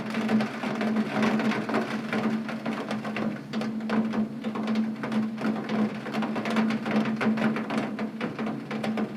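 Heavy rain pattering on a window pane: a dense, irregular stream of drops hitting the glass, with a steady low hum underneath.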